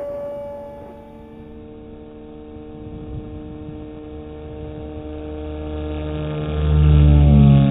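Radio-control model airplane's motor droning in flight: a steady pitched whine that slowly lowers in pitch. It grows louder near the end with a low rumble underneath, and the pitch shifts briefly.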